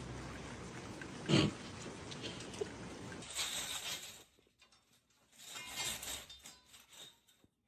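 A pet animal's short, loud sound about a second and a half in, over a steady background hiss, followed by a few fainter noises.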